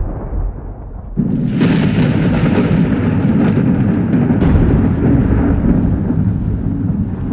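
Thunder: a low rumble, then a sudden loud crack a little over a second in that rolls on as a long, slowly fading rumble.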